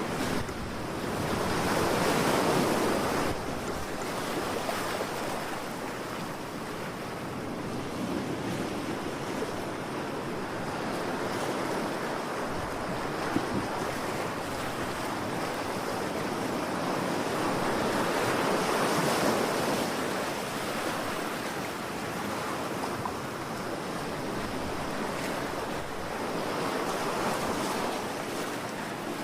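Ocean surf: a steady wash of waves that swells louder about two seconds in, again around eighteen seconds, and once more near the end.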